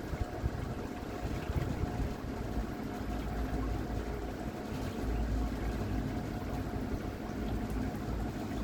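Water washing along the hull of a battery-electric trimaran under way, with wind rumbling on the microphone and a faint steady tone throughout.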